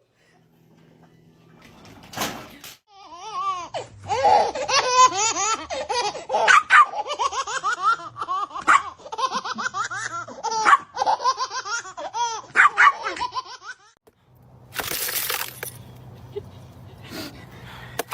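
A person laughing hard in quick, high-pitched peals for about ten seconds. Shortly after the laughter stops, there is a brief burst of noise.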